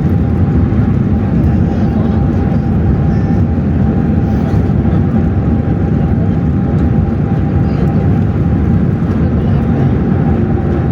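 Airbus A380 heard from inside the passenger cabin during landing: a loud, steady rumble of engine and airflow noise, with a faint steady whine above it.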